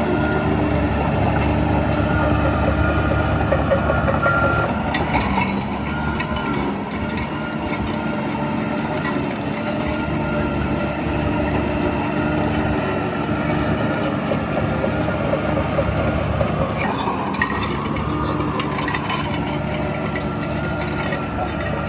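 Heavy diesel earthmoving machinery running steadily, with a few short clanks.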